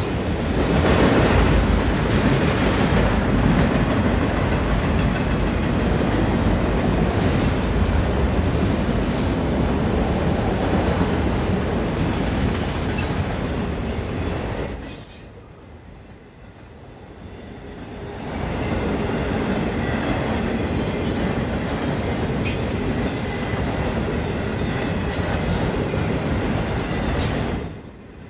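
Freight train of autorack cars rolling past a level crossing: a steady rumble and rattle of steel wheels on rail, with sharp clicks from wheels crossing rail joints. The noise drops away for a few seconds about halfway, then returns, and drops again near the end.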